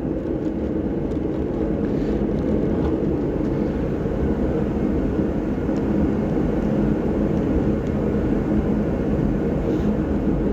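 Steady low droning background noise with a few faint light clicks.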